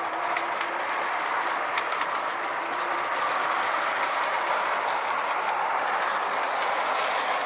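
O scale model train, a scratch-built Santa Fe Mikado steam locomotive pulling passenger cars, running on two-rail track: a steady rolling whir with faint clicks from the wheels on the rails.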